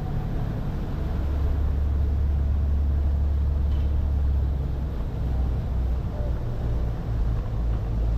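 Steady low drone of a boat's engine under way, heard aboard.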